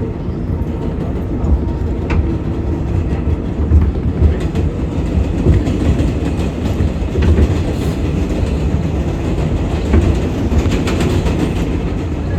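R188 subway train running between stations: a steady low rumble with scattered clicks of the wheels over rail joints, some bunched together near the end.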